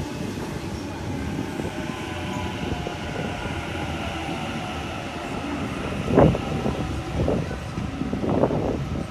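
Electric train at a station platform: a steady rail rumble with a whine of several tones that slowly falls in pitch, as of a train slowing. A few louder bumps come in the last three seconds.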